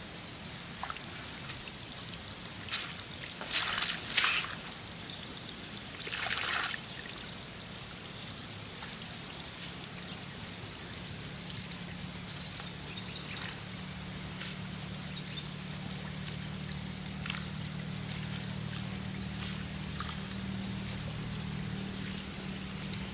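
Water splashing and trickling, with a few short bursts in the first third, over a steady high-pitched whine; a low steady hum comes up about halfway through.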